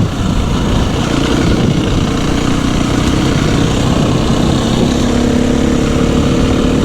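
250 cc dirt bike engine running under the rider, with a dense rumble and rushing noise. About halfway through, the engine settles into a steady, even note.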